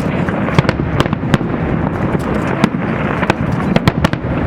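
Fireworks display going off continuously: many sharp bangs and crackles, several a second and overlapping, over a constant low rumble of shell bursts.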